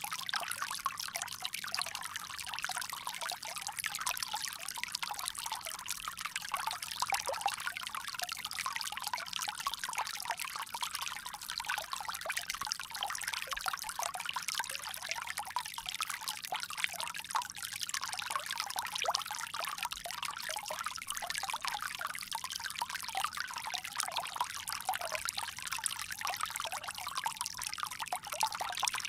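Water pouring steadily from a bamboo spout, a continuous bright trickle and splash with almost no low rumble.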